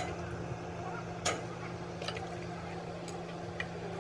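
A few sharp taps at uneven intervals over a steady low hum; the loudest comes about a second in, with fainter ones after it.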